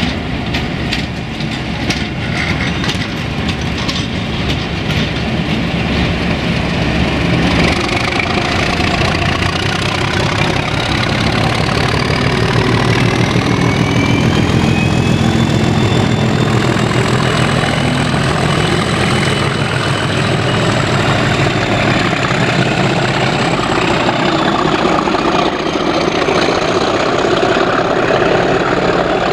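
A heavy diesel locomotive engine running under power, building in loudness over the first several seconds, with a low rumble and a high whine that rises in pitch from about eight seconds in and then holds.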